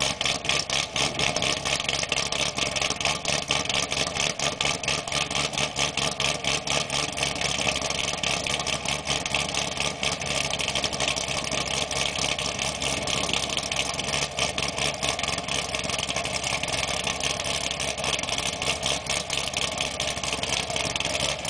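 2008 Corvette V8 with a G6X3 camshaft and long-tube headers idling after a cold start, with a steady, choppy pulse.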